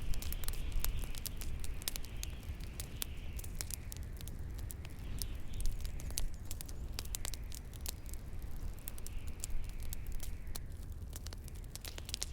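Bonfire crackling, with irregular sharp pops and snaps, over a steady low rumble of wind. A hissing wash in the background dies away near the end.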